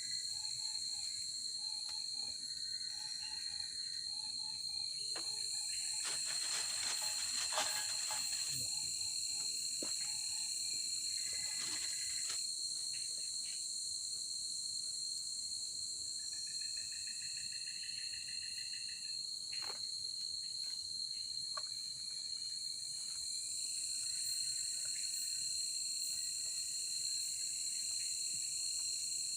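Forest insects chirring: a steady high-pitched tone with a constant hiss above it, and other shorter pulsing calls coming and going. A cluster of sharp clicks and crackles about a quarter of the way in, and a few single clicks later.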